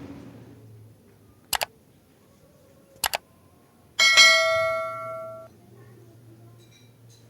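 Two sharp clicks, then a single bright bell-like ding that rings for about a second and a half and cuts off abruptly.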